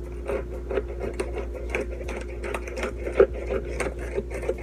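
Knife cutting through a quesadilla of crisp toaster-oven tortillas on a plate: a quick, irregular run of crackly cuts and taps, several a second.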